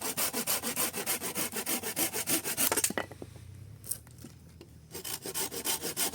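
Hand saw cutting firewood in quick back-and-forth strokes, about five or six a second. The sawing pauses for about two seconds around the middle, then picks up again.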